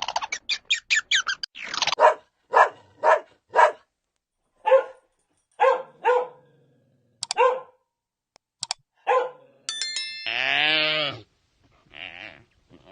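Dog barking repeatedly, about a dozen short separate barks with gaps between them. Near the end comes one longer, drawn-out pitched animal call.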